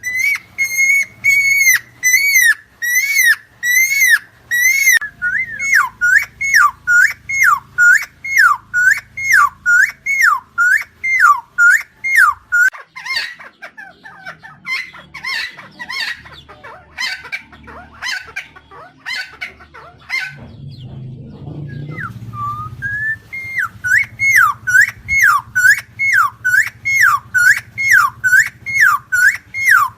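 Helmeted friarbird (Philemon buceroides) calling: a long run of loud whistled notes, about one and a half a second, each dipping in pitch. Midway the calls turn into a faster, more varied chatter, break off briefly, then the repeated notes resume.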